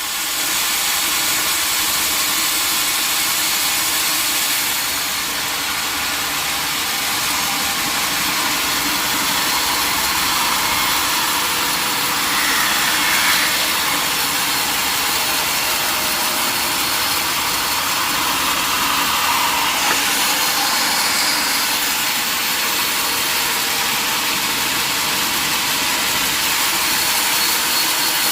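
Sawmill saw machinery running steadily, a loud, even mechanical noise that holds without a break.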